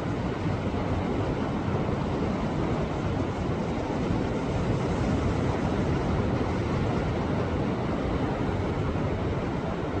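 Sea waves washing against a rocky shore: a steady rushing surf with a deep rumble and no single break standing out.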